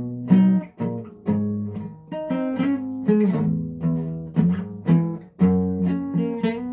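Guitar strumming chords in a loose rhythm, each stroke ringing on before the next.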